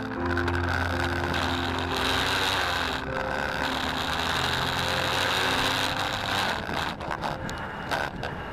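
Yamaha YB-1's two-stroke engine running on the move, with road and wind noise, easing off somewhat near the end.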